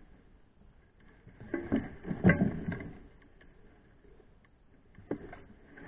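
Mountain bike clattering over rough trail: a burst of knocks and rattles about a second and a half in, then one sharp knock near the end.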